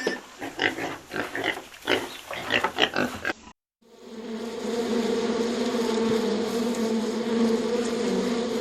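A quick run of short animal calls, then, after a brief break, a steady buzzing drone that holds an even pitch.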